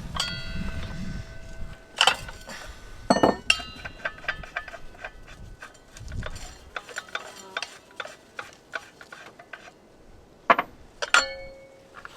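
Metal hand tools clinking and knocking: a few sharp, ringing strikes and many lighter clicks and taps, as tools are handled during stonework preparation.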